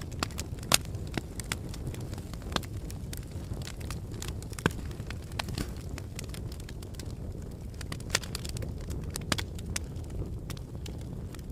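Wood fire burning in a fireplace: a steady low rumble of flames with irregular sharp crackles and pops, the loudest about a second in and about four and a half seconds in.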